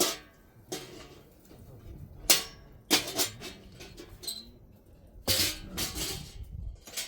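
Pots, dishes and utensils being handled, knocking and clattering against each other in a series of separate sharp clatters, with a longer rattling spell about five seconds in.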